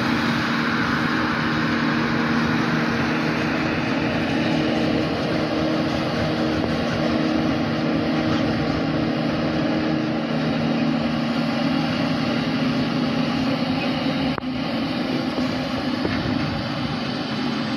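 Heavy silage-harvest machinery running steadily: the diesel engines of a forage harvester and tractors at work, with a constant engine hum. There is a brief dip in the sound about fourteen seconds in.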